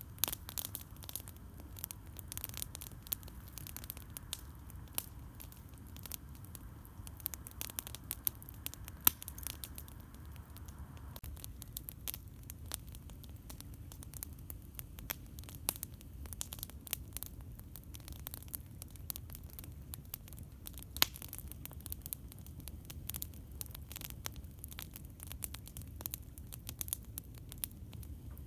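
Campfire crackling, with frequent sharp irregular pops over a steady low rumble.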